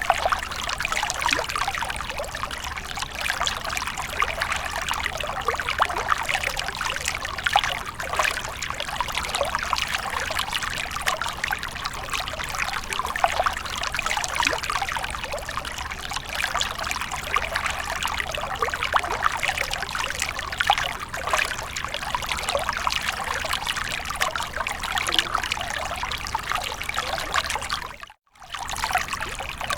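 Water of a fountain splashing and trickling steadily, a dense patter of small splashes over an even rush. It cuts out completely for a split second near the end, then resumes.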